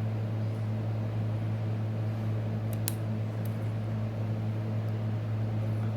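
Steady low mechanical hum, like a running fan, with a few faint small clicks about three seconds in.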